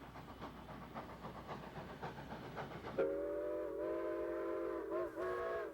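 Model steam locomotive running with steady rapid clicking from its wheels on the track. About three seconds in, its chime whistle sounds a long blast, followed by a short one near the end.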